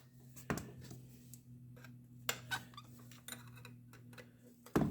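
Scattered metal clicks and clinks of hand tools on the vaporizer's bolt and nut as it is tightened a little further, the sharpest about half a second in and near the end, over a faint low steady hum.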